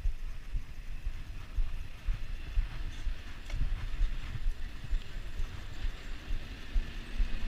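Low, irregular thumping rumble on the microphone of a camera riding along on a bicycle, from wind buffeting and road bumps.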